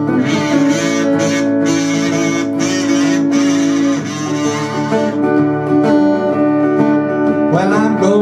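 Guitars playing the instrumental introduction of a country-blues song, with a long held note in the first few seconds and bending notes near the end.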